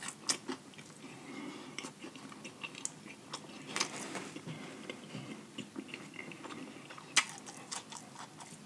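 Close-miked chewing of a mouthful of fried chicken sandwich dipped in sauce: a run of soft, wet smacks and crunches, with a few louder smacks scattered through.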